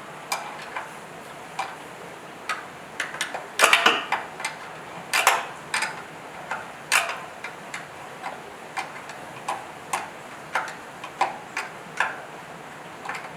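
A series of sharp, irregular clicks and taps, loudest a few seconds in, over a steady background hiss.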